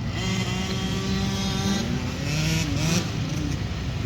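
Dirt bike engines revving as motocross bikes race past, the pitch climbing and dropping with throttle and gear changes.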